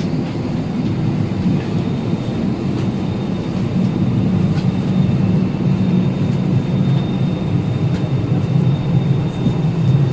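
Steady low rumble in the cabin of an Airbus A320 on the ground, with a thin high whine over it, getting a little louder a few seconds in.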